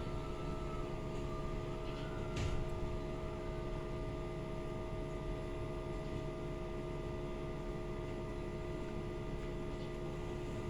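TCL inverter air conditioner's outdoor unit running steadily: the compressor, already ramped up after start-up, and the fan give a steady hum with several fixed tones. A single short knock about two seconds in.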